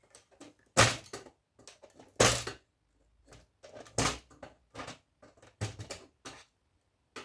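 Knocks and clatter of scrap electronic parts being handled and set down while equipment is taken apart: three loud knocks about a second and a half apart, then lighter clicks and taps.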